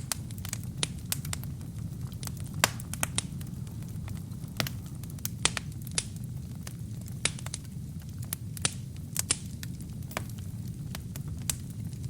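Wood fire burning in a fireplace: a steady low rumble of the flames with irregular sharp crackles and pops from the burning logs, the loudest pop about two and a half seconds in.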